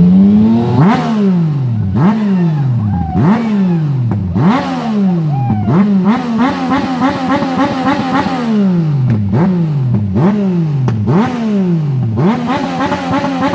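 Sport motorcycle engine revved hard and repeatedly while standing: about ten quick throttle blips, each rising sharply and falling back, with the revs held high for a couple of seconds midway.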